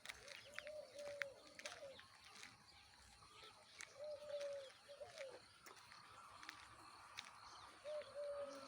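A dove cooing in groups of soft, low notes: a bout at the start, another about four seconds in, and a third near the end. Short, faint chirps of small birds come and go.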